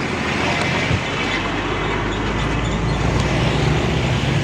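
Heavy truck engine running steadily, with dense rattling road noise over it.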